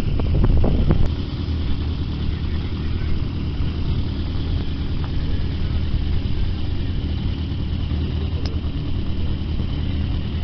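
Rally car engines idling steadily at low revs, with a louder stretch in the first second.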